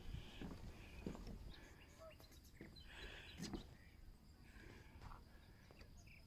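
Quiet outdoor ambience with a few scattered soft knocks and faint bird chirps.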